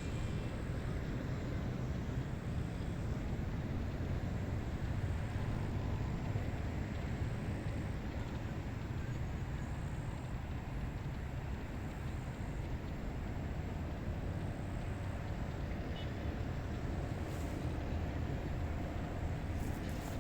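Steady wind blowing outdoors, heard mostly as a low rumble with a fainter hiss above it.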